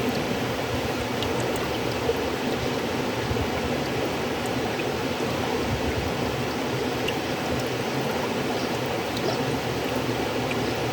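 River water flowing in a steady, continuous rush, with a few faint short ticks of splashing water.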